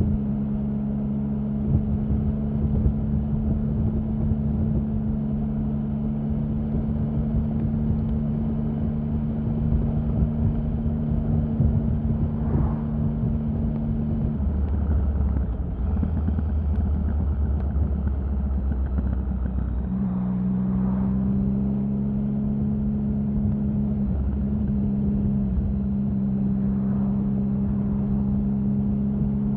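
Triumph Sprint 1050's three-cylinder engine running at a steady pitch. About halfway through it drops to a lower, deeper note for about five seconds, then settles back to a steady, slightly different pitch.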